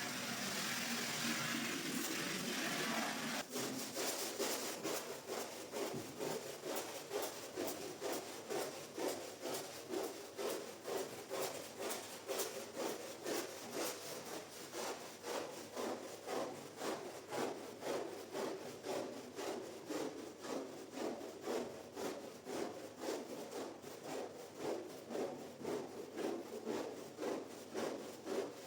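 A wet shaggy rug being worked by hand with a scrubbing or squeegee tool in steady strokes, a little under two a second. Before the strokes begin, about three and a half seconds in, there is a steady hiss.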